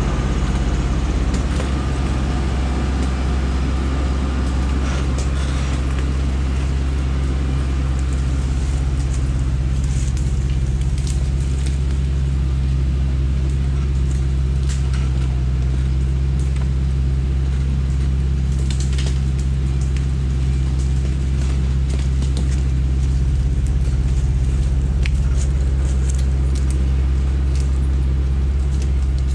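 Truck engine running steadily with a deep, even drone, with scattered sharp clicks and cracks over it.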